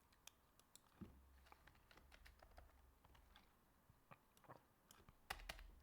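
Faint computer keyboard keystrokes, sparse and irregular, with a few quicker clicks near the end.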